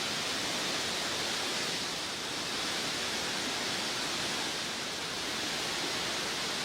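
Fast-flowing floodwater rushing, a steady even noise.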